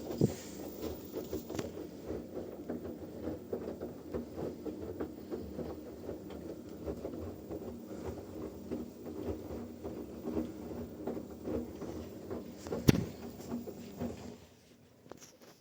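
Washing machine running a wash, with a steady tumbling churn made of many small soft knocks. One sharp knock comes near the end, and then the churning stops briefly.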